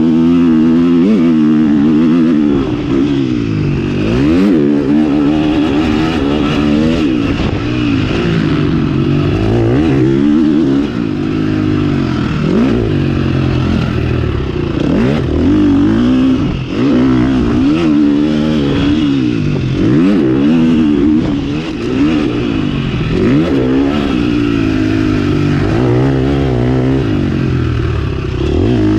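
KTM 350 SX-F four-stroke single-cylinder motocross engine being ridden hard, revving up and shutting off again and again as it accelerates, shifts gear and slows.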